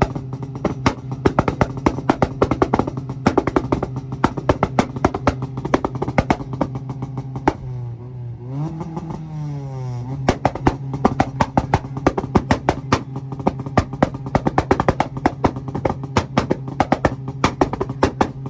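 White Honda's engine held on a two-step launch limiter, a rapid machine-gun string of exhaust pops and bangs over a steady buzzing note. About eight seconds in the revs dip and climb back up before it returns to the limiter.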